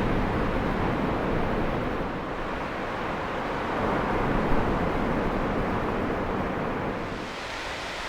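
Ocean surf and wind, a rushing noise that swells and eases, with wind buffeting the microphone.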